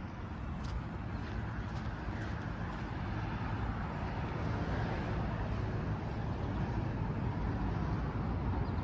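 Steady low rumble of vehicle noise, growing slowly louder.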